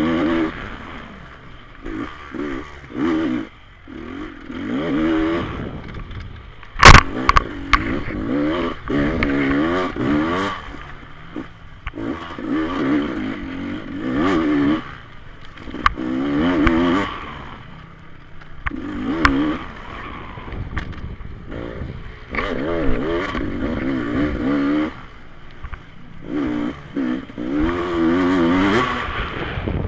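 Enduro dirt bikes racing on a motocross track, their engines revving up and falling back again and again as they pass. A sharp knock about seven seconds in.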